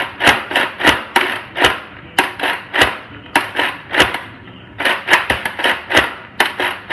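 Nerf Roto Fury pump-action blaster slam-fired with the trigger held: a rapid, uneven series of sharp plastic clacks and pops, about three a second, as the pump is worked back and forth.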